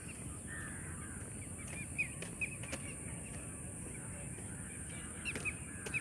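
Birds calling: scattered short chirps and harsher caws, over a steady low background rumble and a constant high hiss.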